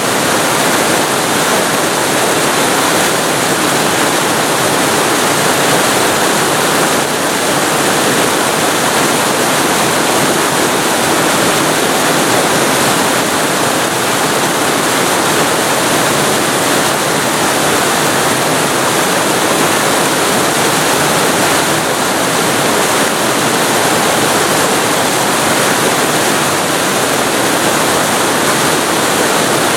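Waterfall recorded very close to the falling water: a loud, steady rush of water.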